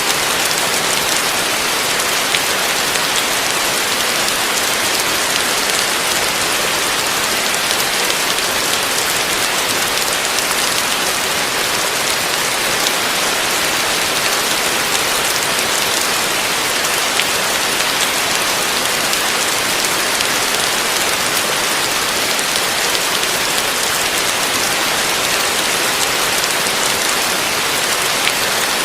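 Heavy rain falling steadily: a dense, even hiss with faint scattered drop ticks and no thunder.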